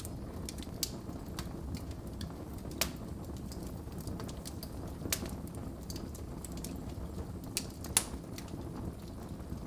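Wood fire burning in a fireplace: a steady low rush of flames with scattered crackles and a few sharper pops, the loudest about eight seconds in.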